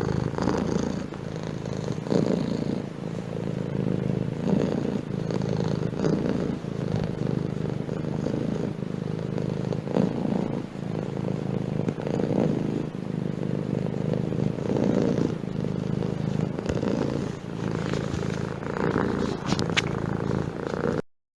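Domestic cat purring steadily, a low rumble that swells and fades every second or two, cutting off suddenly near the end.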